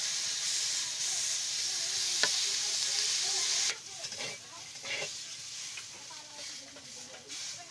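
Sliced pointed gourd (potol) frying in oil in a steel wok, a steady loud sizzle, with a metal spatula scraping and clicking against the pan as it is stirred. About four seconds in the sizzle drops away abruptly, leaving quieter scraping and clatter of the stirring.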